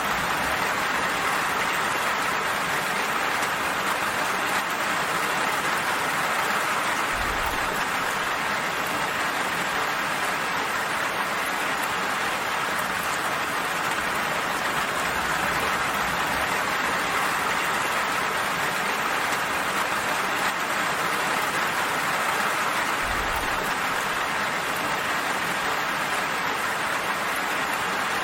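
Steady, even rain falling, a continuous hiss of drops on surfaces.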